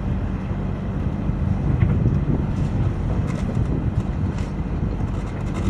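Steady low rumble of a sailboat under way, with wind buffeting the microphone and a few faint clicks.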